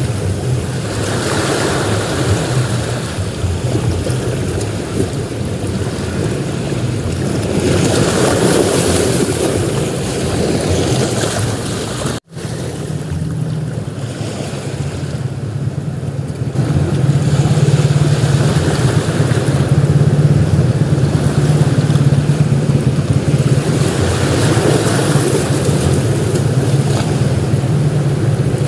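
Ocean surf breaking and washing on a beach, a steady rush of waves that swells and eases. A low rumble grows louder from about seventeen seconds in, and the sound drops out for an instant about twelve seconds in.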